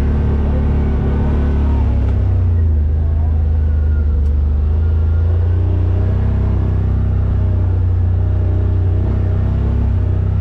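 Yamaha RMAX side-by-side's engine running steadily under way, a deep even drone.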